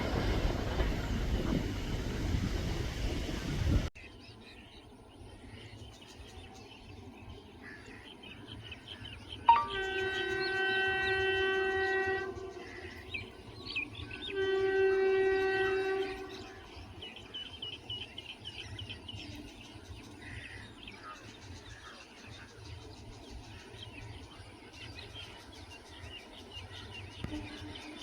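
A train rushes past at speed until an abrupt cut about four seconds in. After that, an Indian Railways locomotive horn sounds two long, steady blasts of about two seconds each, from about ten and fourteen seconds in, over quiet outdoor ambience with faint bird chirps.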